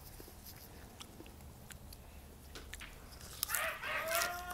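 Faint clicks of someone biting and chewing a freshly picked leaf. About three and a half seconds in, a louder drawn-out pitched call begins and keeps going.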